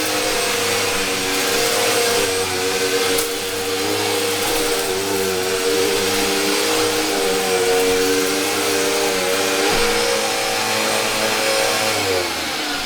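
Eureka upright vacuum cleaner's motor running steadily, its pitch wavering slightly as it is worked, then dropping near the end.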